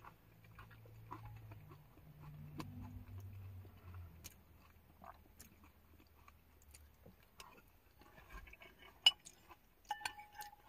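Quiet chewing and mouth sounds of a person eating, with scattered small clicks and taps, a sharper click about nine seconds in and a short squeak near the end.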